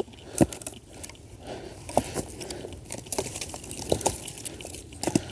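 Dry wood being broken up without an axe: irregular cracks and crunches.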